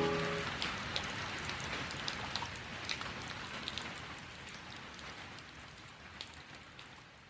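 Rain falling steadily, with scattered sharp drip ticks, growing gradually quieter; a keyboard piano's final chord dies away in the first half second.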